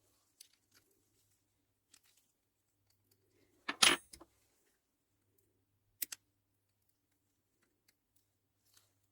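Small metal parts and tools being handled: scattered light clicks and clinks, a louder clatter about four seconds in, and a sharp click about six seconds in.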